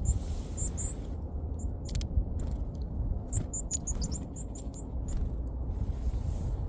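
Varied tit giving short, very high, thin calls: a few about half a second in, then a quick run of them between about three and five seconds in, over a steady low rumble.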